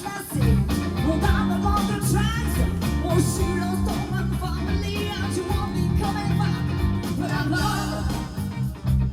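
Live rock band playing, with electric guitar and bass.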